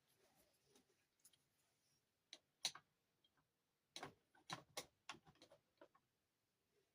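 Faint, scattered clicks and taps of toy dollhouse castle parts being handled, the loudest about two and a half seconds in, then a quick run of clicks between about four and six seconds.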